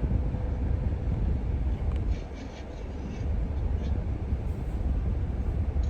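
Low, steady rumble of a car idling, heard from inside the cabin.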